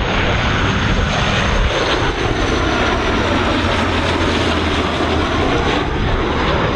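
Jet airliner's engines running as it passes, a loud even rush with a thin high whine that slowly falls in pitch.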